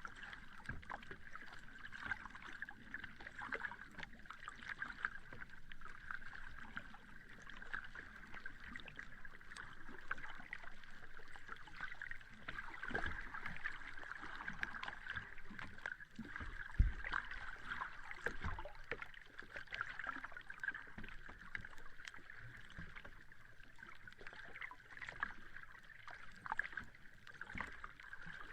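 Small sea waves lapping and washing on a shore, a steady watery wash with fine crackling and trickling. There is a single low thud about 17 seconds in.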